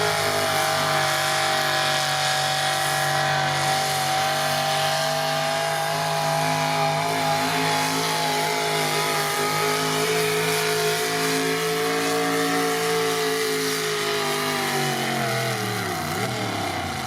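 Small-block gas engine of a pro street pulling truck at full throttle during a sled pull, holding high, nearly steady revs. Its pitch and level fall in the last couple of seconds as the run ends.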